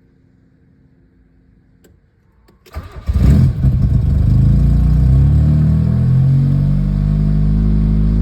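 A vehicle engine cold-started: a faint click or two, a short crank, then it catches about three seconds in, flares briefly and settles into a fast, steady cold idle. The engine runs with an exhaust leak that the owner calls severe.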